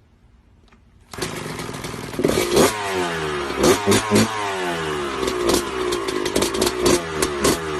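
Motorcycle engine starts up about a second in and revs hard. Its pitch climbs and then drops over and over, with repeated sharp knocks and clatter on top.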